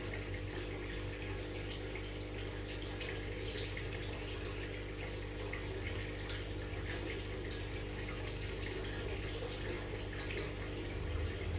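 Aquarium water trickling and bubbling with many small splashes and drips, over the steady hum of the tank's filter pump.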